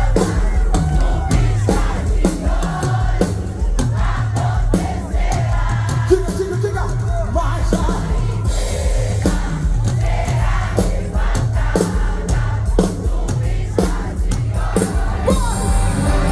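Live band music with heavy bass and regular drum hits, with singing and a crowd throughout.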